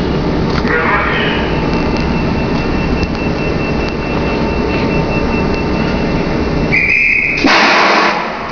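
Electric multiple-unit train at a station platform: steady running rumble with a thin high whine, then near the end a short high beep followed by a loud hiss of about a second.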